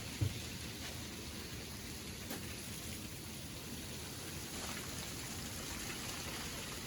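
Freezing rain falling steadily and pattering on ice-coated surfaces during an ice storm, with one short thump just after the start.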